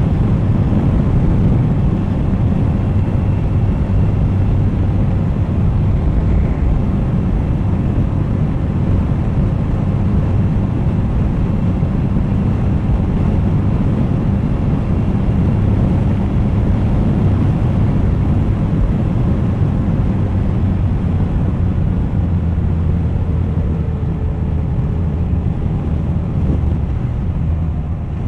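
Suzuki GSX1250FA's inline-four engine running steadily under way, mixed with heavy wind noise on the camera microphone.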